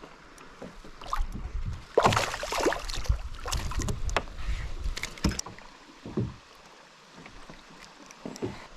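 Water splashing and sloshing around a kayak, with a few sharp knocks against the hull, while a hooked fish is played in. The splashes and knocks come irregularly between about two and five and a half seconds in, then settle.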